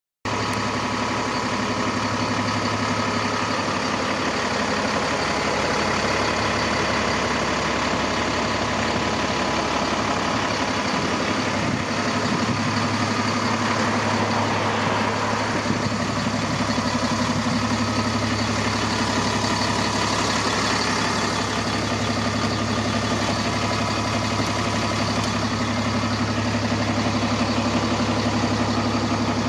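DAF CF65 truck's diesel engine idling steadily.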